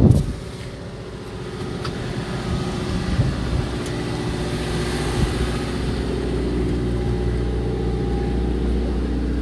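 Fishing boat's engine running steadily, swelling over the first couple of seconds and then holding at an even hum.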